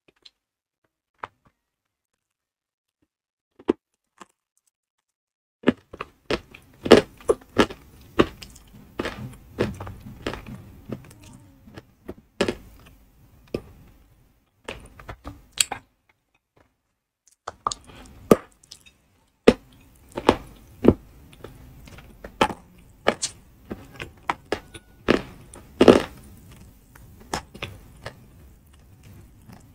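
Close-up chewing and crunching of lumps of ayilo, an edible clay chalk: a few isolated clicks at first, then dense, sharp crunches from about six seconds in, pausing briefly around the middle before starting again.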